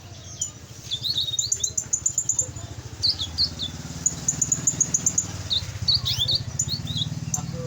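Domestic canary singing: bursts of quick high chirps and short trilled runs, over a steady low hum.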